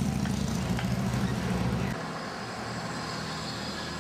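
Low engine hum of a nearby road vehicle that cuts off abruptly about halfway through, leaving quieter steady traffic noise.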